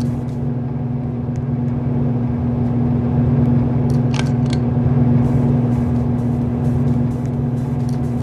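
Ceiling fan running steadily, its motor giving a loud, even hum. Two short high chirps come about four seconds in.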